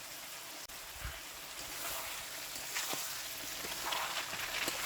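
Spiced chicken, potatoes and eggs sizzling as they fry in a pan during the final sauté, with a few faint clicks, the sizzle growing a little louder toward the end.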